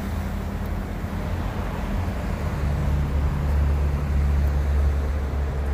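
Car engine running: a low steady hum that gets louder about halfway through.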